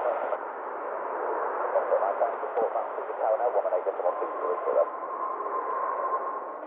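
Air traffic control radio heard through an airband receiver: steady static hiss with a faint, garbled transmission in the middle, and a steady high whistle coming in about four seconds in.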